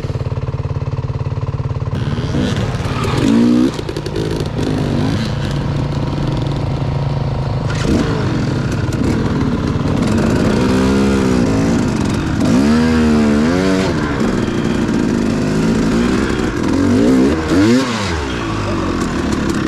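Dual-sport dirt bike engine running steadily for about two seconds, then revved up and down again and again as the bike is ridden over rough trail. The pitch rises and falls in swells around the middle and near the end.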